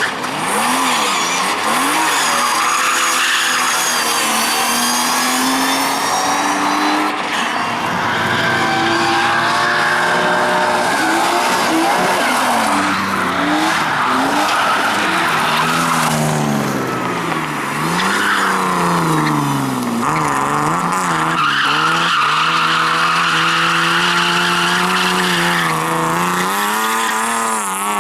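Rally cars driven hard: engines revving up and dropping back repeatedly through gear changes and lifts, with tyres squealing and skidding. Late on, one engine holds a steady high note for several seconds under a continuous tyre squeal.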